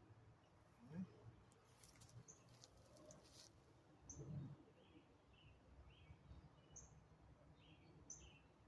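Near silence with faint, short bird chirps repeating every second or so, and a couple of soft knocks.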